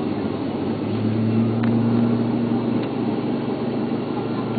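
Steady rumble inside the cabin of a Boeing 777-300 during pushback, with a low hum that comes in about a second in and fades away about three and a half seconds in.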